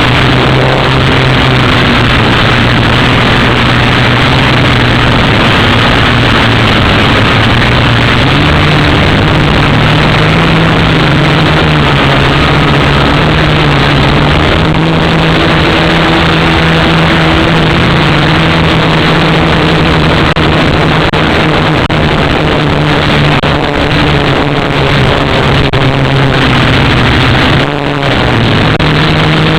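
Syma X8W quadcopter's electric motors and propellers running with a loud, steady hum whose pitch steps up and down as the throttle changes, dipping briefly near the end.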